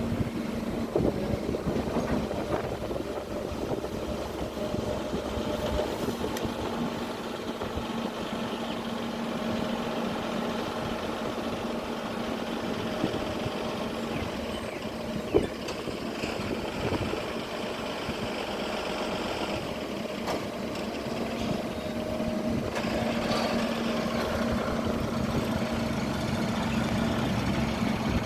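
Hydraulic excavator's diesel engine running steadily at work, with one sharp knock about fifteen seconds in.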